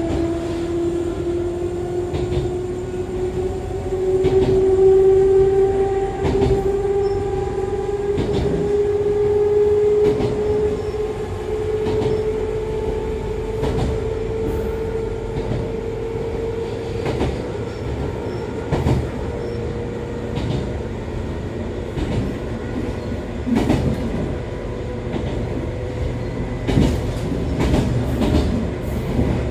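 Running sound heard inside an Echizen Railway MC6101 railcar, the car noted for its abnormal noise: the whine of its MT54 DC series-wound traction motors and gears rises steadily in pitch as the train gathers speed, then levels off. Under it is a steady rumble with wheel clicks over rail joints.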